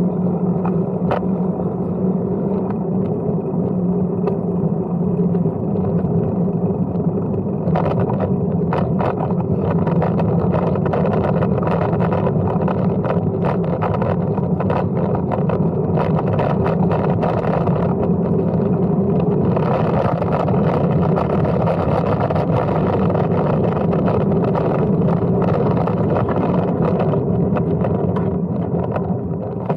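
Steady rumble of a Brompton folding bike being ridden, with wind and rolling noise on the microphone and frequent small rattles, heavier from about eight seconds in.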